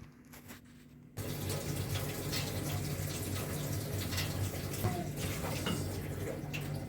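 Water running steadily from a tap, starting suddenly about a second in.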